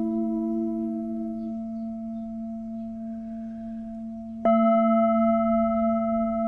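Singing bowl ringing with long, steady, fading tones. It is struck again about four and a half seconds in, and the ring swells louder.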